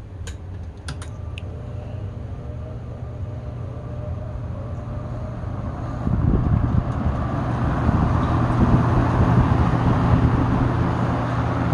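Frigid SP20 five-blade box fan switched on with a few clicks, its motor humming as the blades spin up and the rush of air grows steadily louder, stepping up sharply about six seconds in.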